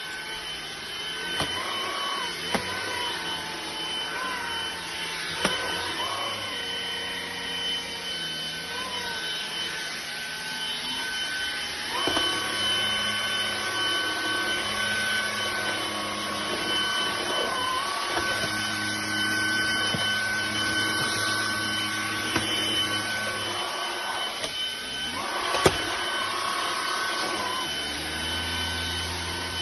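Cordless stick vacuum cleaner (MONSGA, brushless motor) running: a steady high motor whine over a lower hum whose pitch wavers and shifts, with a few light knocks.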